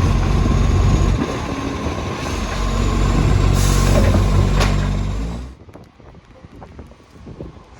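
Side-loader garbage truck's engine running loud and steady through a leaking exhaust, with a brief air hiss and a sharp knock about four and a half seconds in. The engine noise then drops away suddenly.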